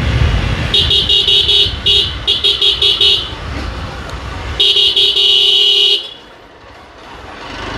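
Vehicle horn honking in a quick run of short toots, then held in one long blast of over a second. Under it is rumble from riding on the road, which fades near the end.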